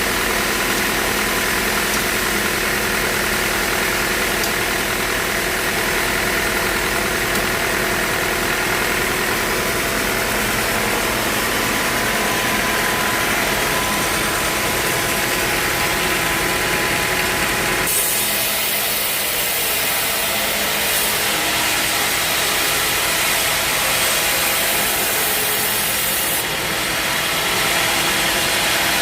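Portable bandsaw sawmill running steadily while it saws a teak log, an engine hum under the hiss of the blade. About two-thirds of the way through, the sound changes abruptly: the low rumble drops and the high hiss grows brighter.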